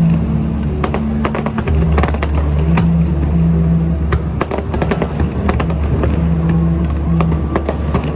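Fireworks going off in quick succession, many sharp bangs and crackles, over music with a steady low bass.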